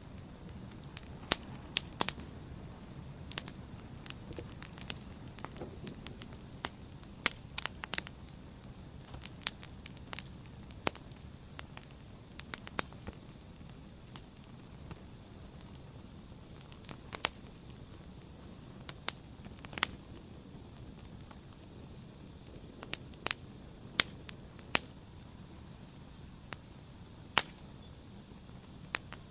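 Wood fire burning in a fireplace: a steady low rush of flames with sharp, irregular crackles and pops from the burning logs.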